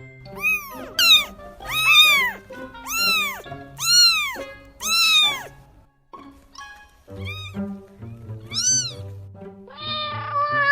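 A cat meowing repeatedly, about one rising-and-falling meow a second for five seconds, then after a short pause a few more meows, over background music.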